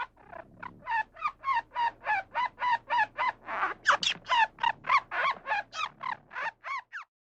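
A young animal calling in a rapid series of short, pitched cries, about four a second, each dropping slightly in pitch.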